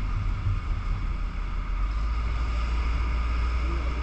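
Heavy truck's diesel engine running hard under throttle with a steady low drone, pulling out of snow on a tow chain.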